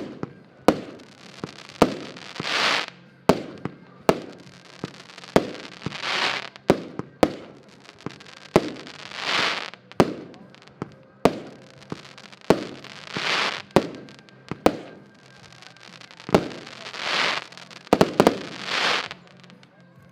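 Diamond Tropical Fire consumer firework battery firing its shots: sharp launch cracks about once a second, with a swelling, fading rush of crackling breaks every three to four seconds. The firing stops about a second before the end.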